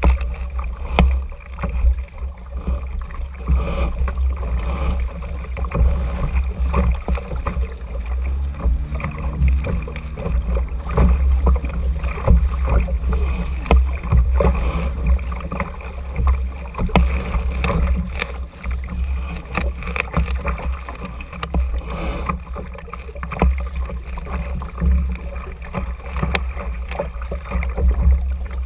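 Water rushing and slapping along the hull of an RS Tera sailing dinghy under way, with a constant deep rumble of wind buffeting the camera and scattered light knocks. A brief low hum comes in about eight seconds in and fades a few seconds later.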